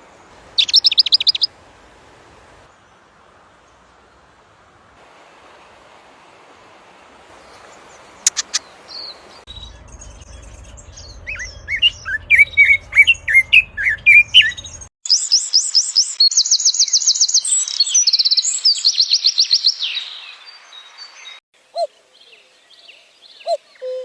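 Songbirds singing in a run of separate recordings: a brief high trill near the start, a varied warbling song before the middle, then fast high-pitched trills repeated for several seconds, and a few short low calls near the end.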